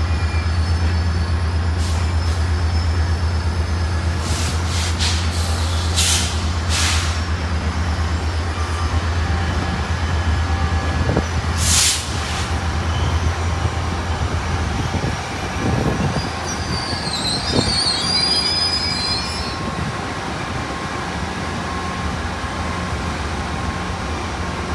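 Metrolink commuter train's diesel locomotive running with a steady low drone as the train rolls slowly into the platform, with several short sharp noises from the running gear and a high wheel squeal about 17 seconds in. The engine drone drops away about 15 seconds in.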